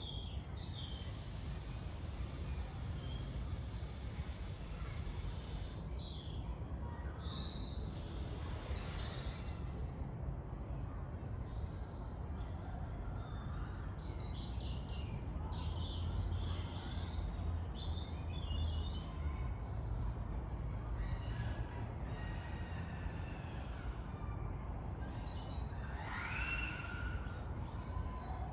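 Woodland birds chirping and calling here and there, over a steady low rumble of distant traffic from a nearby high street. One louder call rises in pitch near the end.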